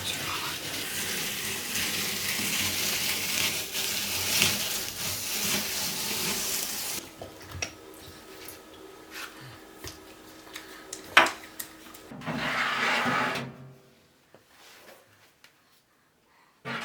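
Water running from a tap in a steady rush that stops about seven seconds in. Then a faint steady hum, a sharp click, and a second brief rush of noise.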